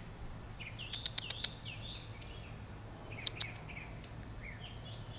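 Small birds chirping outdoors in short, quickly rising and falling notes, with several sharp clicks about a second in and a few more after three seconds.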